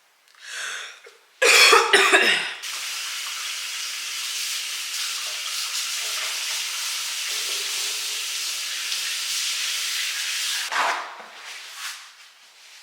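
A person coughs once, sharply, then a steady hiss runs for about eight seconds and ends with another short cough-like burst.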